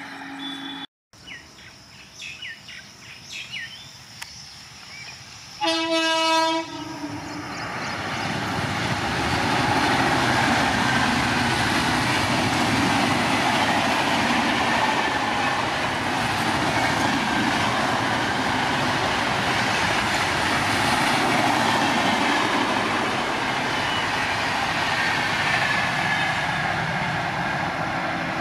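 An electric locomotive's horn sounds one short single-note blast about six seconds in. Then a long passenger train passes at speed, a dense rush of wheel-on-rail and coach noise that builds over a few seconds and holds loud.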